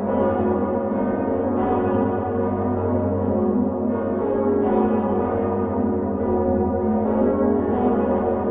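Many heavy swinging bronze church bells of the Utrecht Dom tower, the great Geryt van Wou bells among them, rung on straight stocks all together. The result is a dense, continuous clash of overlapping strokes, several a second, over a deep sustained hum.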